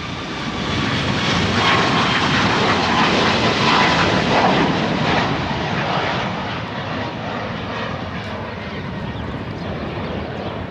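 Airplane flying past close by: engine noise builds over the first couple of seconds, is loudest around the middle, then slowly fades as it moves away.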